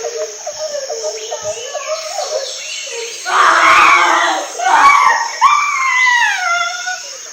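Young voices, then loud screaming about three seconds in: a harsh shriek, and then a long cry that falls in pitch.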